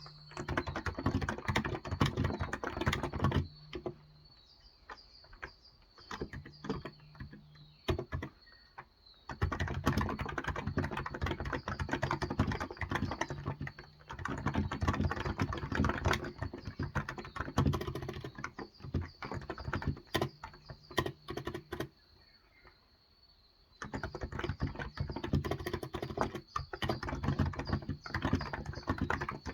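Typing on a Cox Endeavor electrostatic capacitive (Topre-style) tenkeyless keyboard with 35 g switches: fast runs of keystrokes broken by pauses of a few seconds with only scattered key presses.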